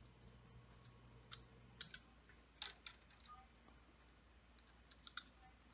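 Near silence broken by a few faint, scattered clicks and taps from handling the small parts of a fluorescent light fixture.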